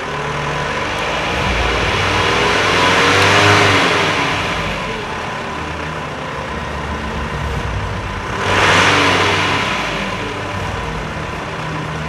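Volkswagen Golf III 1.9 TDI four-cylinder turbodiesel engine revving: the pitch climbs to a peak about three seconds in and falls back, then rises again more sharply near the two-thirds mark.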